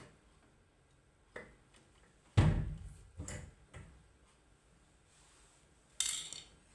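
Hard objects being handled: a click, then a few knocks with one heavy thump about two and a half seconds in, and a short scraping rattle near the end.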